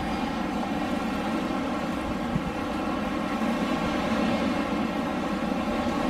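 Steady rushing of blowing air, even throughout, with a faint steady hum running under it.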